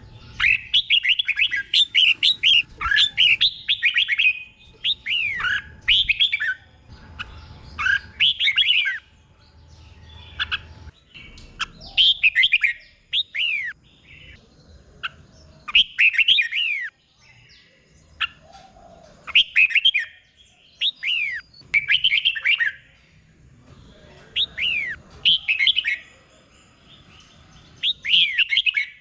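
Red-whiskered bulbul singing: bouts of quick, arching whistled notes, repeated every couple of seconds with short pauses between, the phrases given in doubled pairs.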